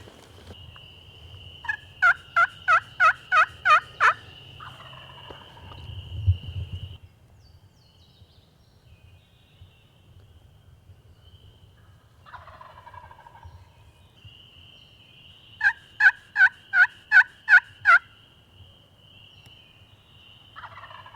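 Wild turkey calling: two loud runs of about eight evenly spaced yelps each, the second about twelve seconds after the first. Fainter gobbles follow each run and come again near the end.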